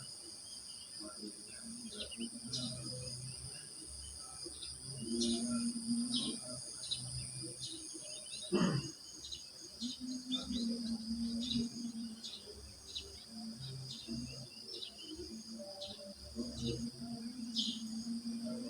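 Crickets chirring in a steady high trill, with many short bird chirps scattered over it. About eight and a half seconds in, a single loud sweep falls quickly from high to low.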